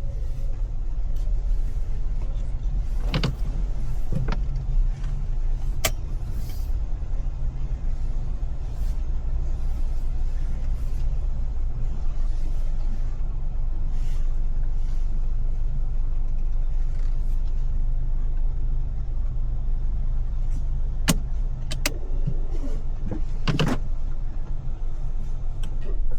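Car driving in city traffic: a steady low rumble of engine and road noise, with a few sharp clicks scattered through, several close together near the end.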